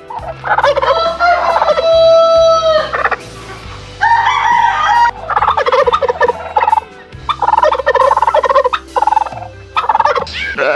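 Domestic turkeys gobbling in repeated rapid, rattling bursts, with one long held crow near the start that sounds like a rooster.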